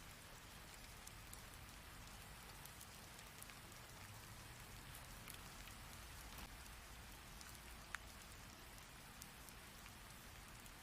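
Rain falling steadily: a soft, even hiss with scattered sharp ticks of single drops, and one louder drop tick about eight seconds in.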